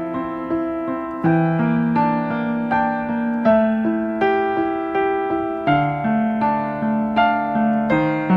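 Background music: a piano melody with notes that strike and fade, about two a second, over a lower line of held chords.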